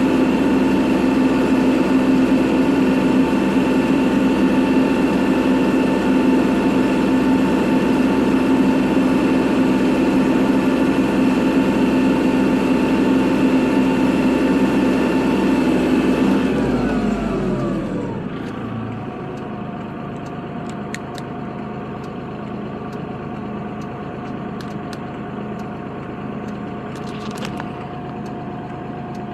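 Kubota tractor's diesel engine running steadily at high revs. About 17 seconds in the revs fall away over a couple of seconds, and it settles to a quieter, lower idle with a few faint clicks.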